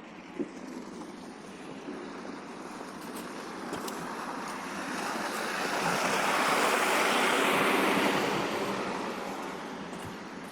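A vehicle driving past on a snow-covered street: tyre and road noise swells gradually, is loudest about seven seconds in, then fades away.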